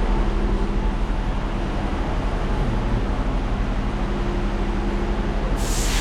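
Vehicle running: a steady low rumble with a few steady hums, with a hiss of rushing air coming in near the end.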